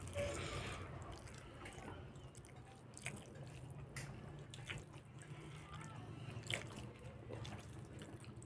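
Close-up wet chewing and lip-smacking of someone eating rice and meat in sauce with bare hands, with a few faint sharp clicks from the mouth.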